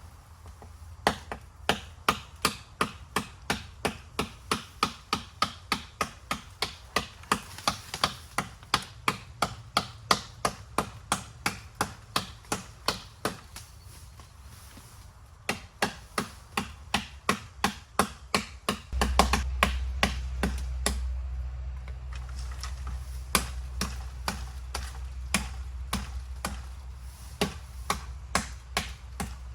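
Repeated sharp chopping strikes of a blade into bamboo, about two to three blows a second, with a brief pause midway and slower, sparser blows near the end.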